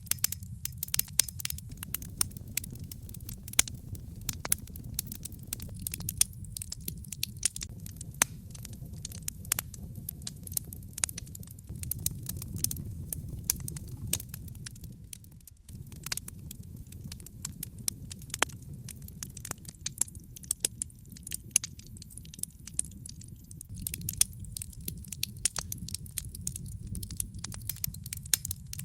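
Wood fire burning in a fireplace: logs crackling with irregular sharp snaps and pops over a steady low rumble of the flames. The rumble dips briefly about halfway through.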